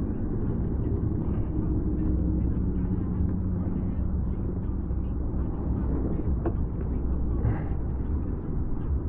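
Suzuki GSX-R750's inline-four engine running steadily under way, with wind rumbling on the microphone.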